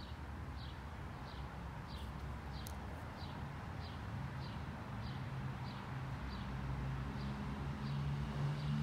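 A small bird chirping over and over, short high chirps about two a second, with a low steady hum underneath that grows louder near the end.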